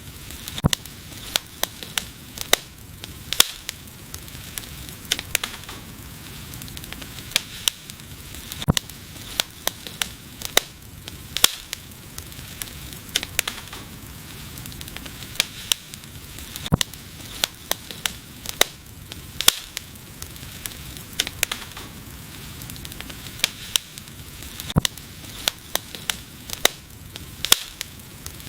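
Wood fire crackling: irregular sharp pops and snaps, several a second, over a steady low hiss of burning.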